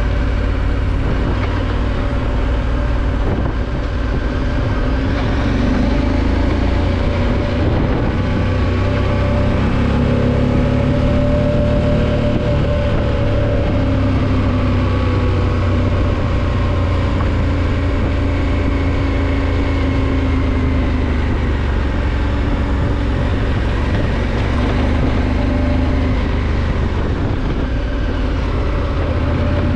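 Adventure motorcycle engine running at about 30 km/h on a dirt trail, its pitch rising and falling gently with the throttle.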